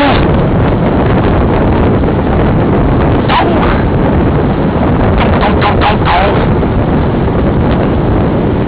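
Loud wind buffeting the microphone of a bicycle-mounted camera on a fast downhill descent. A few short high-pitched sounds stand out about three seconds in and again in a cluster around five to six seconds in.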